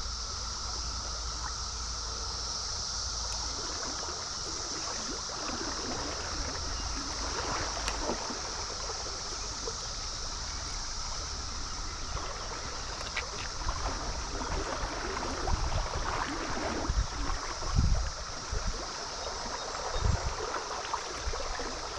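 Stream water running, with the steady, high drone of a Brood XIV periodical cicada chorus behind it. A few low thumps come in the last several seconds.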